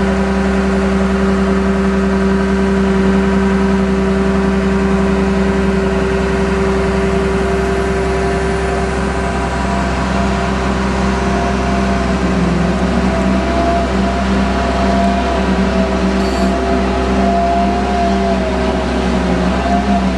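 GMK5210 mobile crane's diesel engine running steadily with a constant hum, as the crane's hydraulics work. About halfway through, a higher wavering whine comes in over the engine.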